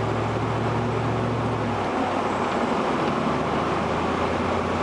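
Steady car road and engine noise heard from inside the cabin while driving. The engine's low hum shifts lower about two seconds in.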